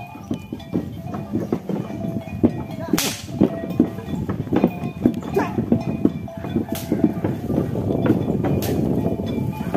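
Cattle-drawn cart clattering along: a steady run of hoof and wheel knocks, with three sharp cracks about three, seven and nine seconds in.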